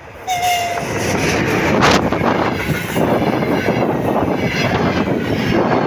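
An EP1 electric locomotive hauling a passenger train passes close by with steady loud rolling noise from its wheels and coaches. A short toot of the locomotive's horn comes just after the start, and a brief rushing surge about two seconds in.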